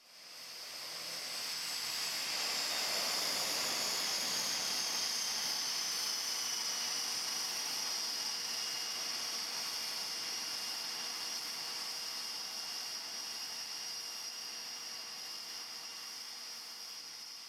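Aircraft engine noise: a steady rushing hiss with a high whine that slowly falls in pitch. It fades in at the start and eases off toward the end.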